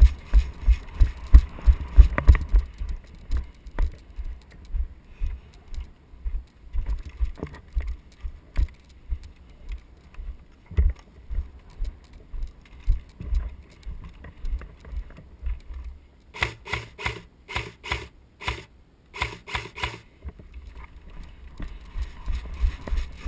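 Running footsteps, about two to three a second, with the rattle of carried gear. About two-thirds of the way in the steps stop, and an airsoft gun fires about ten quick shots over some three and a half seconds before the running resumes.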